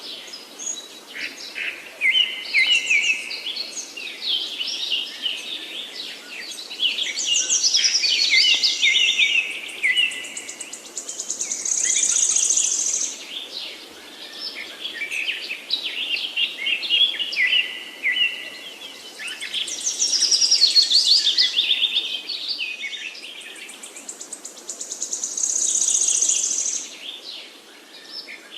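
Several songbirds singing at once in woodland, a dense mix of varied phrases, chirps and trills. A loud, high, rapid trill stands out three times, about a third of the way in, in the middle, and near the end.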